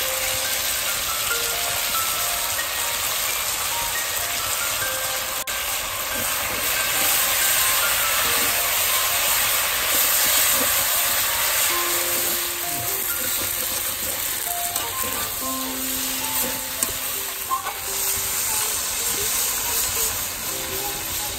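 Potato and vegetable pieces sizzling as they fry in oil in a metal karai, with a spatula stirring them. Near the end, water is poured into the hot pan. A soft background melody plays underneath.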